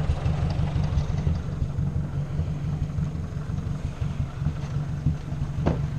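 Ford 600 tractor's four-cylinder engine running steadily.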